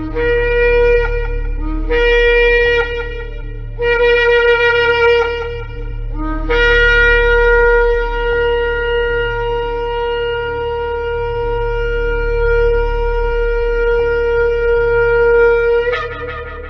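Shofar blown in a series of three short blasts, each starting on a brief lower note before jumping up to the main note. Then comes one long held blast of about ten seconds that breaks sharply upward in pitch at its end. A steady low hum sits underneath.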